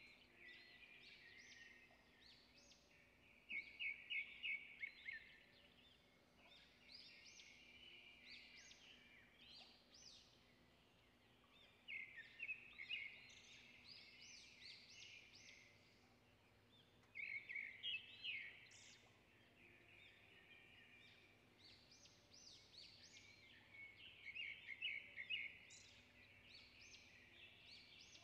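Faint birds chirping and chattering, with bursts of rapid trilling calls every few seconds.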